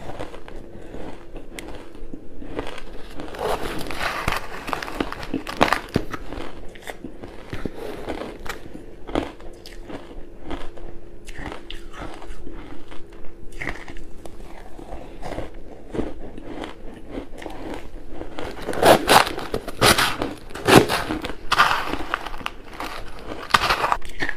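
Close-miked biting and chewing of crunchy ice: a run of crackly crunches and munching, with the loudest bites coming near the end.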